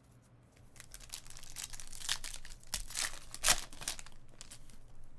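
Foil wrapper of a trading-card pack crinkling and tearing as it is ripped open by hand. The crackling starts about a second in and is loudest a little past the middle.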